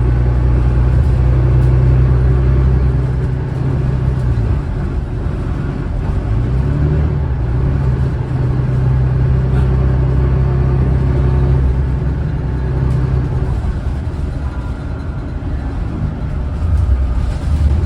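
Alexander Dennis Enviro500 bus's Cummins ISLe six-cylinder diesel pulling hard at high revs. It holds a steady pitch, drops away after about four seconds, climbs again and holds, then eases off after about thirteen seconds.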